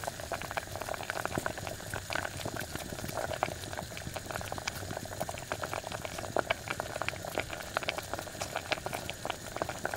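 Milk broth with beef boiling hard in a nonstick pan, foaming up with a dense, steady crackle of small bubbles popping. Boiling milk like this tends to rise and boil over.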